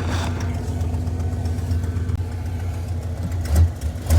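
1988 Ford F-250's engine idling steadily just after starting, with the faulty neutral safety switch bypassed by a jumper wire.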